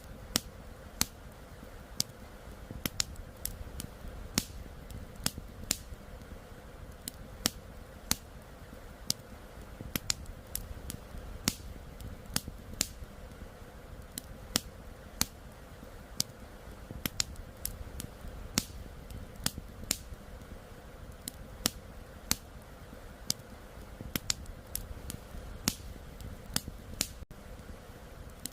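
Campfire crackling: wood snapping in sharp, irregular pops, several a second, over a steady rushing of flowing river water.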